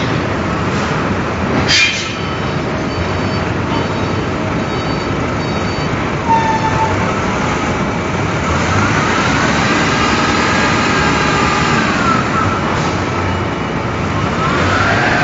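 Heavy industrial machinery running with a steady loud din. A motor whine rises, holds and falls away in the middle, then rises again near the end.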